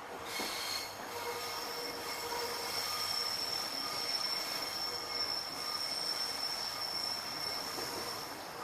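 Metro suburban train running on the rails, with a steady high-pitched wheel squeal held over the running noise for most of the stretch.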